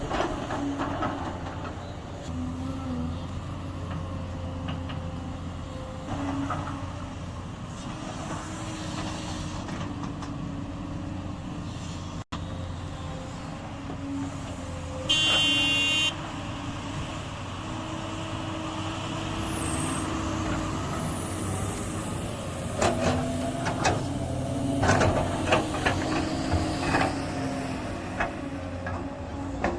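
Heavy diesel machinery running steadily, with a loud one-second vehicle horn toot about halfway through and a run of metallic clanks and knocks in the last several seconds.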